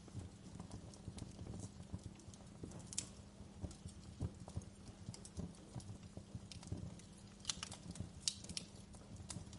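Wood fire crackling in a fireplace: irregular pops and snaps over a low, steady rumble of the flames, with a few sharper snaps about three seconds in and a cluster of them near the end.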